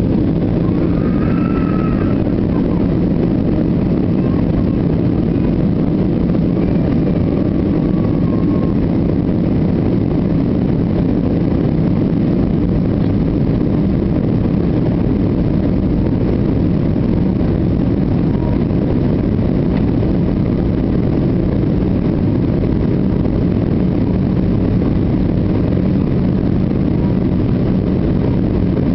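Steady engine and airflow noise heard on board an Airbus A320 airliner during its approach to land: an unchanging low rumble with a faint hum.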